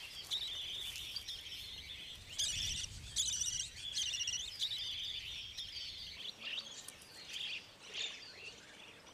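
Budgerigars chirping and chattering in repeated short, high-pitched trills, thinning out over the last few seconds.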